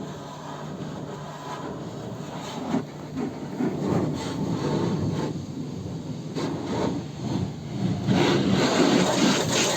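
Car wash equipment running: a steady low hum under a rushing, spraying hiss that grows louder about eight seconds in.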